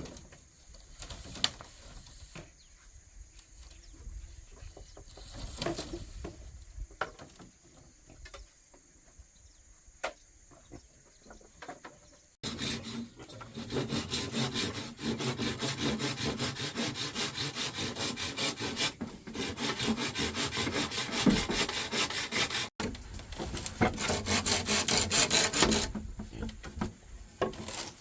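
Light scattered knocks over a faint steady high whine, then, about twelve seconds in, a hand saw cutting wood with quick, regular back-and-forth strokes that run on loudly, broken by a sudden brief gap near the end.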